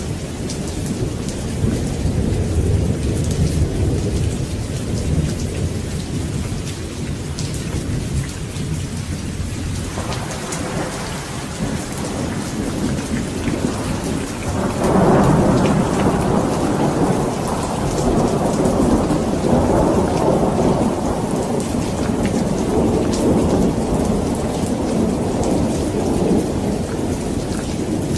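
Steady rain falling with rolling thunder: a low rumble at first, then a louder thunder roll about halfway through that keeps rumbling.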